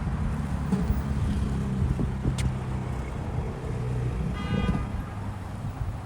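A car engine running on the street, a steady low hum that fades after about four seconds, with a brief high-pitched squeal about four and a half seconds in.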